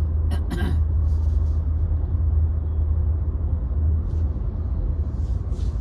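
Steady low road and engine rumble inside the cabin of a moving Toyota Camry, with a brief click or rustle near the start.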